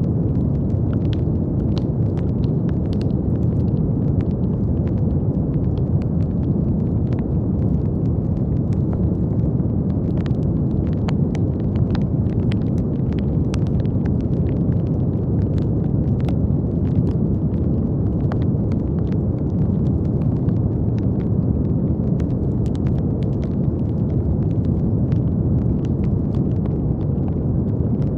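Steady brown noise, a deep, even rumbling hiss weighted toward the low end, with faint crackles scattered irregularly through it.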